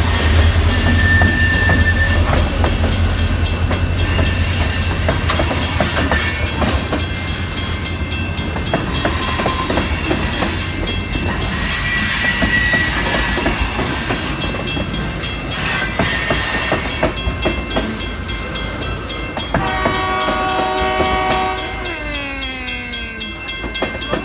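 Freight train rolling through a grade crossing: a steady low rumble with repeated wheel clacks over the rail joints. Near the end a chord of steady tones holds for about two seconds, then slides down in pitch.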